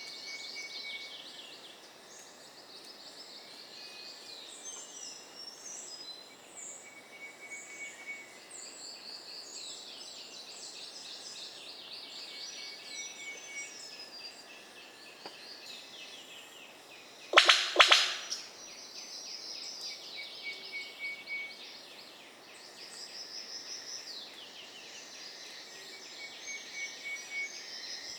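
Rainforest bird chorus: several birds calling at once with high, repeated notes and descending series. About two-thirds of the way through there is a loud, sudden double burst, much louder than the calls around it.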